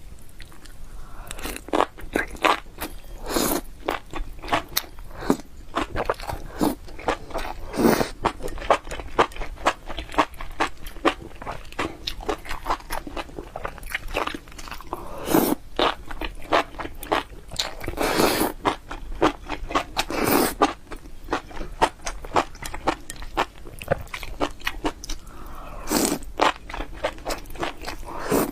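Someone biting and chewing crunchy food: a continuous, irregular run of crisp crackles, with louder crunches every few seconds.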